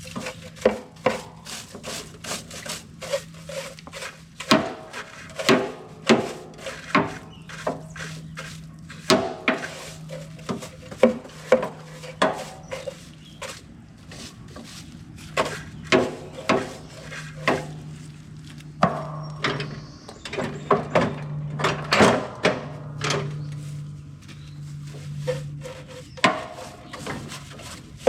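Caked grass and clay being scraped off a riding mower's deck: a run of irregular, sharp scraping strokes and knocks, about one or two a second.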